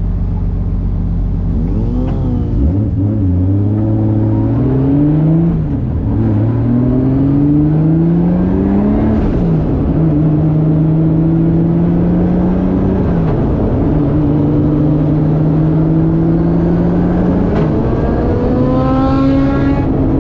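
Toyota 1JZ-GTE VVT-i turbocharged inline-six in a 240SX, heard from inside the cabin: it idles briefly, then pulls away and works up through the gears, rising in pitch in each gear with four drops in pitch at the upshifts.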